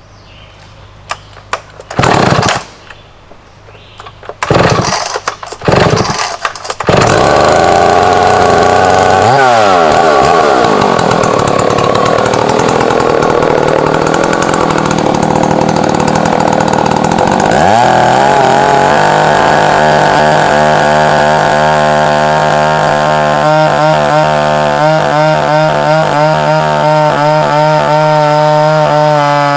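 Large Husqvarna chainsaw starting: a few short bursts of the engine firing and dying, then it catches and runs on, its revs dropping and rising twice. From about the middle it runs steadily at high speed, as it does when driven through a cut on a chainsaw mill.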